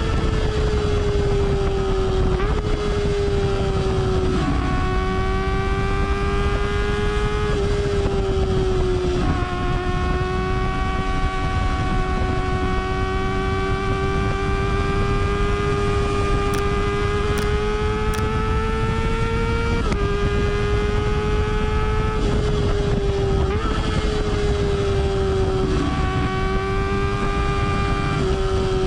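Kawasaki ZX-25R's 250 cc inline-four revving high through a Yoshimura R77-style slip-on exhaust while riding. It sounds a steady high-pitched wail that dips briefly and climbs again several times.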